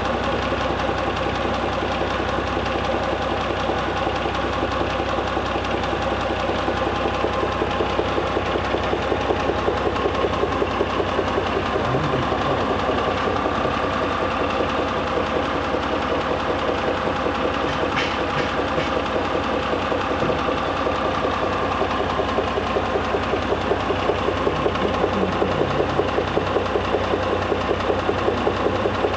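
Mitsubishi Pajero III's 6G74 3.5-litre GDI V6 engine idling steadily with a fast, even, rhythmic knock from inside the engine.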